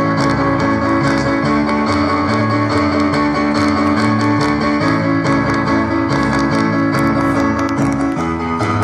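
Live rock and roll band music: guitar over a bass line that steps from note to note, with a steady drum beat.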